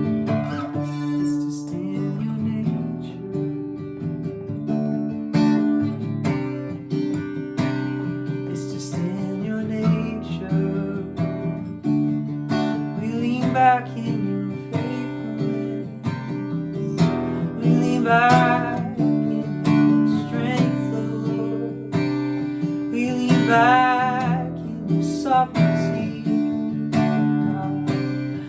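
Acoustic guitar strummed steadily through a worship song's chord progression, with a voice singing a few drawn-out, wavering wordless phrases at intervals of several seconds.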